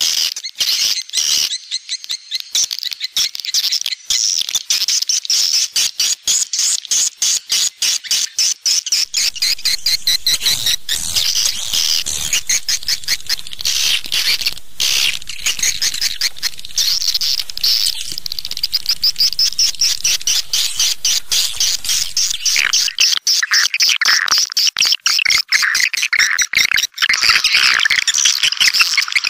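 Swiftlet lure call: a recording of many swiftlets twittering in a dense, continuous chorus of rapid high chirps and clicks, of the kind played to call swiftlets into a nesting house. The chorus grows fuller and a little lower-pitched about two-thirds of the way in.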